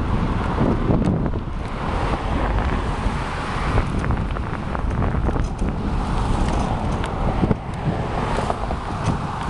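Wind buffeting the microphone of a camera on a moving bicycle, a steady low rumble with scattered light clicks and rattles.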